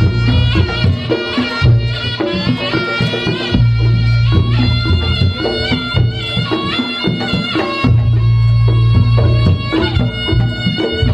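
Reog Ponorogo gamelan music: a slompret (Javanese shawm) plays a nasal, wavering melody over percussion and deep, sustained gong-like low notes.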